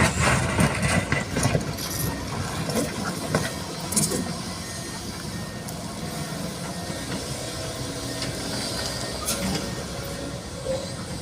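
Sany SY215C excavator's diesel engine running, with clattering knocks in the first couple of seconds, then settling to a steady run with an occasional click.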